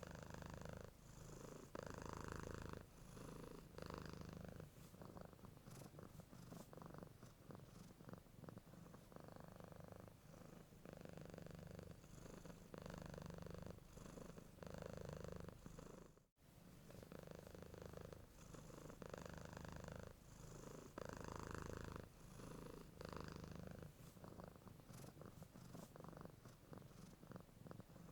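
Domestic cat purring close to the microphone, a quiet low rumble that swells and eases about once a second as the cat breathes in and out. The sound cuts out for a split second a little past halfway.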